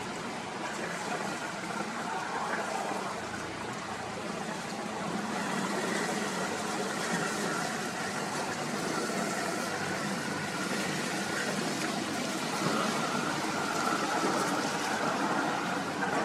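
Steady rushing noise of strong wind and river water, with a cruiser's engine running in the background.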